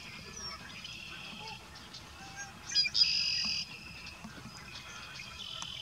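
Steady high trilling of insects, crickets or katydids, in the background. About three seconds in, a louder buzzy call is held for well under a second.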